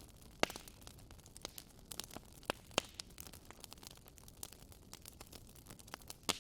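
Wood fire in a fireplace crackling: a low steady hiss broken by frequent sharp pops and snaps of burning logs. The loudest pops come about half a second in, near three seconds and just before the end.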